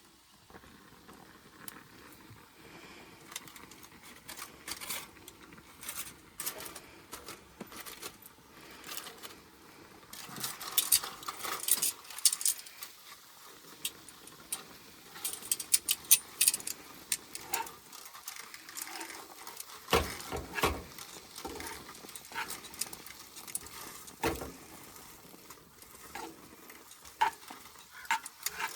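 Scattered clinks, clicks and knocks of camp cookware and utensils being handled, with busy clusters of light metallic clicking and a few heavier knocks.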